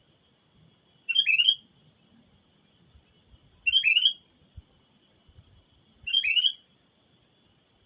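Kutilang (sooty-headed bulbul) giving a short call three times, about two and a half seconds apart, over a faint steady high-pitched tone.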